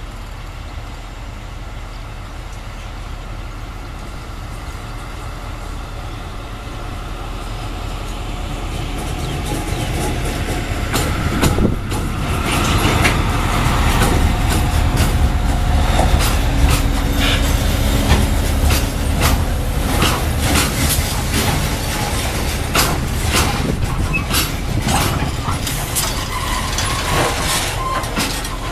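A CSR-built diesel-electric locomotive hauling a freight train of tank wagons approaches and passes, its engine rumble growing steadily louder. From about halfway through, the passing tank wagons' wheels clatter and click over the rail joints in a quick, uneven run of knocks.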